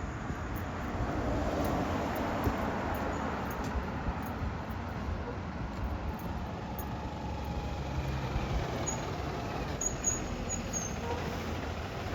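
2023 IC CE school bus under way, heard from inside: steady engine hum mixed with road noise.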